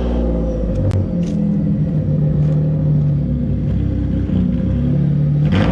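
The V6-swapped Mitsubishi Lancer Evolution X running through its newly fitted exhaust. Its note moves up and down in pitch several times, and there are a few faint clicks about a second in.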